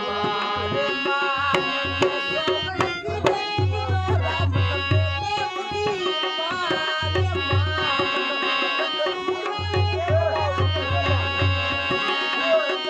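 Indian folk music: a tabla-like hand drum playing quick runs of deep strokes with short breaks, under a held, wavering melody.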